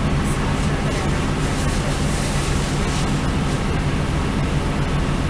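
Northern Ireland Railways diesel passenger train running, heard as a steady low hum with even rolling noise.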